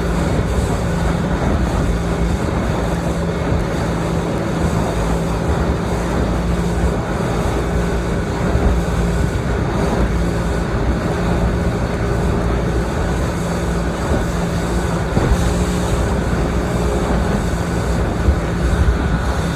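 A motorboat running steadily under way: the engine hums at one unchanging pitch over a loud, constant rush of wind and water.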